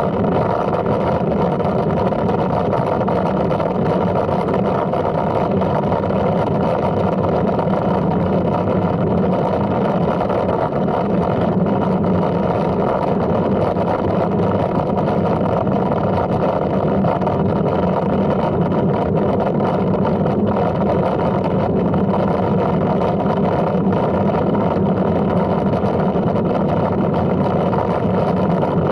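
Steady rushing rumble of riding a bicycle: wind on the microphone together with tyre and road noise, unbroken and even in level.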